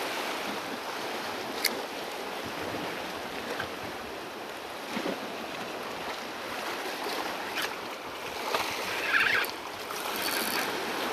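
Sea water washing against shoreline rocks, a steady rushing noise, with wind on the microphone. A single sharp click about two seconds in.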